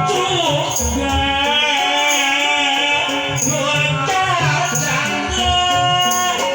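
Live Sundanese Jaipongan music: kendang hand drums, jingling metallic percussion and a high melody with sliding ornaments.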